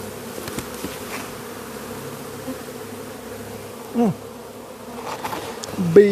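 Honeybee colony buzzing steadily at an exposed hive. A brief voice sound breaks in about four seconds in, and a voice starts right at the end.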